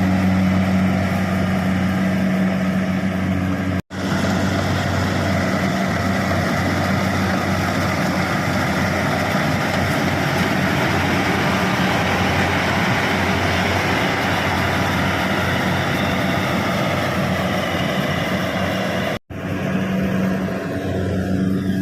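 Kubota rice combine harvester running steadily, with a steady low engine hum. The sound cuts out for an instant twice, about four seconds in and near the end, and between those breaks it carries more rushing machine noise.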